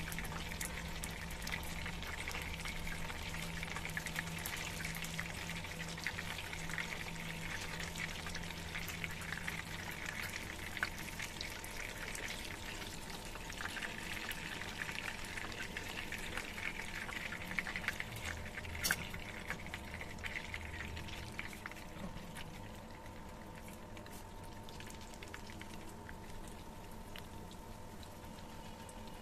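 Chicken leg shallow-frying in oil in a pan: a steady sizzle with fine crackles of spitting oil. A sharp click sounds a little past halfway, and the sizzle grows quieter over the last several seconds.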